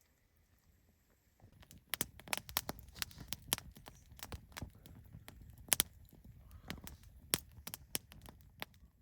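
Irregular sharp crackles and clicks over a low rumble, starting about a second and a half in and carrying on, unevenly spaced, almost to the end.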